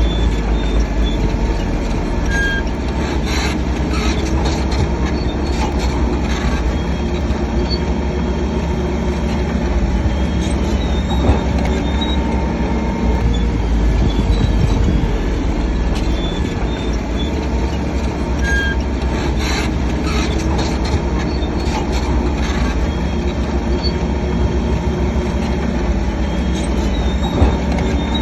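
Shantui DH7C3 crawler bulldozer working: its diesel engine runs with a steady low rumble while the steel tracks squeal and clank as it moves.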